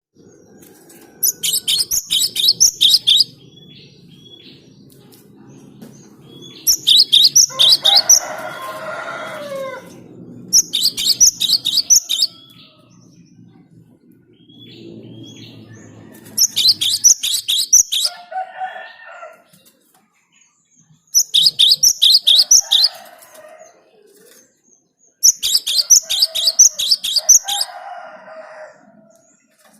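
Gelatik batu (cinereous tit) calling in six loud, rapid bursts of sharp, high notes, each burst about two seconds long and a few seconds apart. Softer, lower chattering follows several of the bursts, over a faint low hum in the first half.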